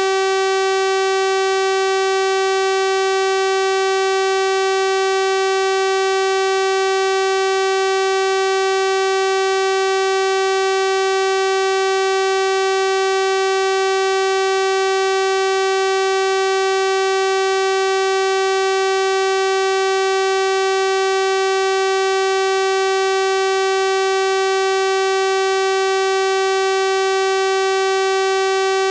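Synthesized 384 Hz sawtooth-wave tone, one steady buzzy pitch with a full series of harmonics, unchanging throughout.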